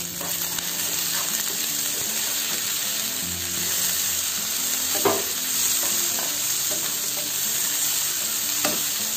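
Sliced shallots, green chillies and freshly added chopped tomatoes sizzling as they fry in a nonstick pan, stirred with a wooden spatula. There is a steady hiss, with two sharper spatula knocks against the pan, about five seconds in and near the end.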